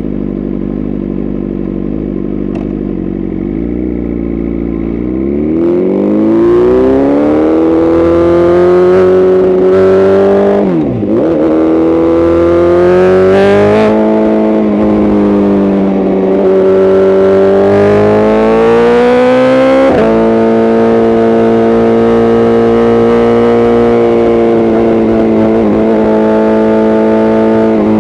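BMW S1000RR sportbike's inline-four engine, running a new tune, pulling on the road: it runs low and steady for a few seconds, then rises in pitch through the revs, with a quick drop and recovery of revs about halfway through and a sudden jump in revs later on before cruising at a steady pitch.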